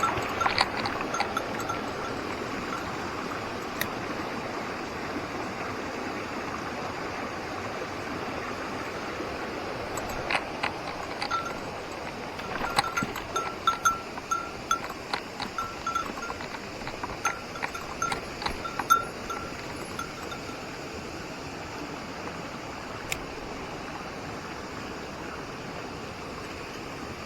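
Mountain stream rushing steadily. A small bell jingles in short bursts with light clicks from about ten to twenty seconds in.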